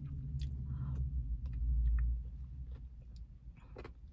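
Soft mouth clicks and chewing from someone eating ice cream between sentences, as a few scattered faint ticks. Under them runs a low rumble that swells briefly about halfway through.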